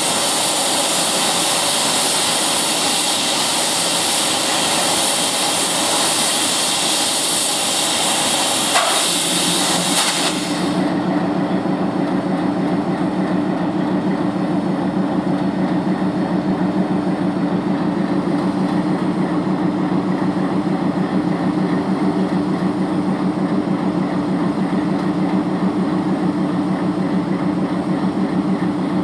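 Compressed air hissing out of an ALCO WDM-3D diesel locomotive in a loud, steady release that cuts off suddenly about ten seconds in, with a brief knock just before. After that the locomotive's diesel engine idles with a steady low hum.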